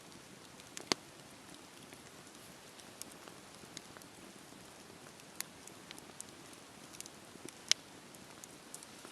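Wood bonfire crackling: a steady faint hiss with sharp pops scattered through it, the loudest about a second in and near the end.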